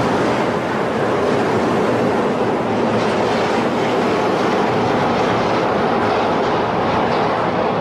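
A train running on its rails: a steady, loud rumble with faint wheel clatter.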